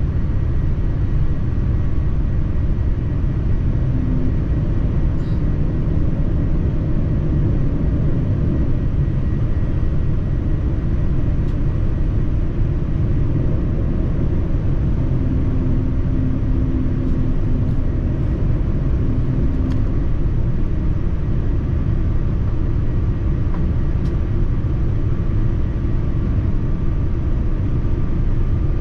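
Steady low cabin rumble of a Boeing 787-9 airliner, from its engines and the airflow, with a faint high hum over it.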